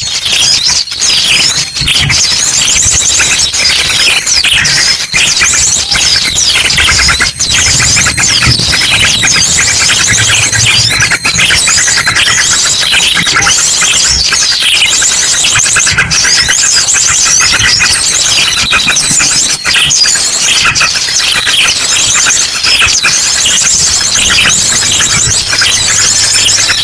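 Bird-lure recording: a loud, dense chorus of many small birds chirping and trilling all at once, layered with ashy drongo calls, without a break.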